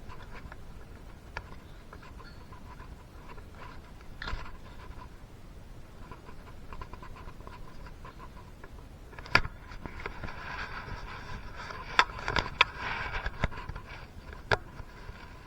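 Hands working on engine parts: faint scattered clicks and rubbing, then a louder stretch of scraping with several sharp clicks in the second half.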